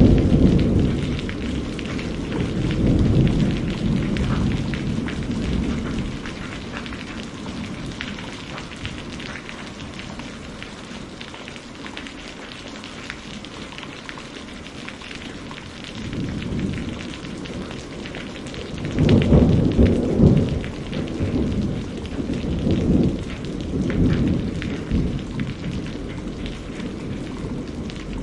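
Steady heavy rain pattering, with rolling thunder rumbling low in the first few seconds and again later, loudest about two-thirds of the way through.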